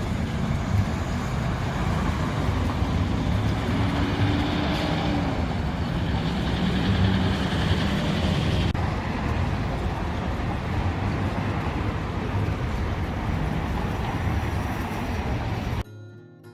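Road traffic: vehicle engines running with a steady low rumble and a brief rise and fall in pitch a few seconds in, cut off abruptly near the end.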